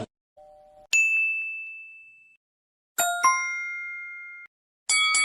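Bell-like ding sound effects, each struck once and left to ring out and fade. There is a single high, clear ding about a second in, a lower ding with several tones at about three seconds, and a quick cluster of strikes near the end. A brief, faint two-note tone comes just before the first ding.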